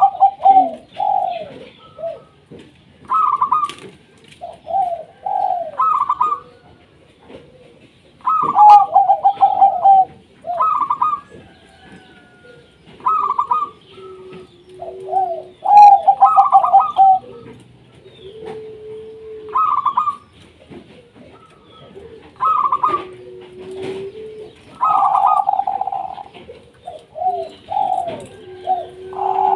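Zebra dove (perkutut) cooing: short phrases of quick, stuttering notes, one phrase after another every second or two.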